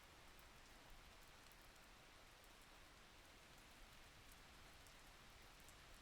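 Faint, steady rain with scattered light drop ticks.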